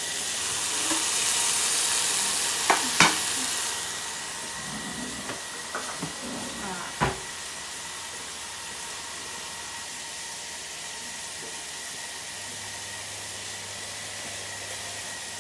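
Chicken pieces sizzling as they fry in a wok, loudest in the first few seconds and then a softer steady sizzle. A few sharp knocks and clatters come around three and seven seconds in.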